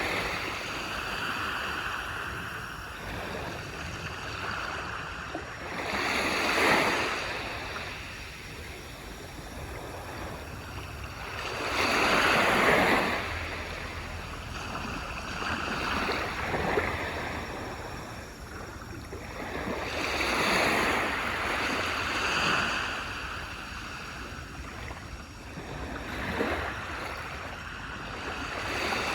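Waves breaking on a beach, a steady wash of surf that swells every few seconds as each wave comes in, with the biggest breaks about six and twelve seconds in and again around twenty seconds.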